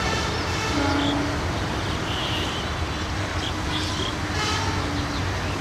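Passenger train of coaches running on the rails, moving away: a steady rumble of wheels and coaches.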